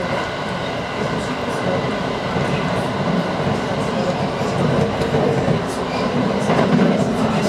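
Aoimori Railway 701 series electric train running at speed, heard from inside its rear cab: a steady rumble of wheels on rail with a few light ticks.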